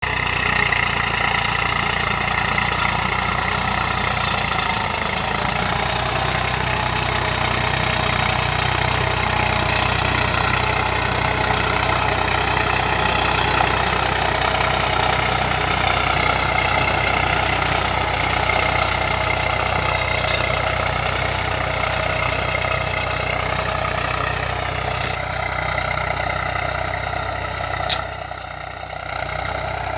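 Eicher 380 tractor's diesel engine running steadily while pulling a cultivator through the soil. A single sharp click comes near the end, after which the engine sound drops slightly.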